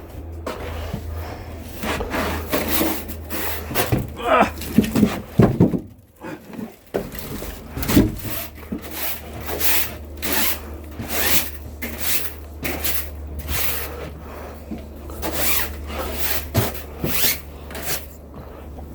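Split firewood logs knocking and clattering against one another as they are handled, in a long irregular run of sharp wooden knocks.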